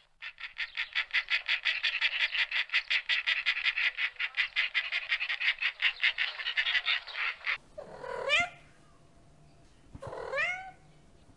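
A rapid, evenly pulsed chattering call at about seven pulses a second, lasting about seven seconds and matched to vultures. It stops abruptly and a domestic cat then meows twice.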